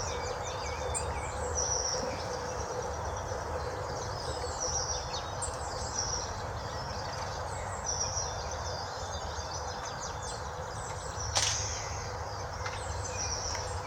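Small birds singing and calling outdoors in short, repeated high chirping phrases over a steady background hum. A brief sharp noise comes about eleven seconds in.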